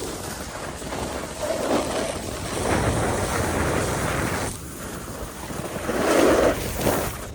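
Wind rushing over the microphone while riding fast downhill on a snowboard, with the board's hiss and scrape over the snow; the rush swells and dips a few times.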